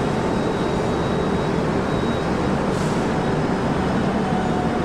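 Steady, even noise of a passenger train standing at a station platform, with no sudden events.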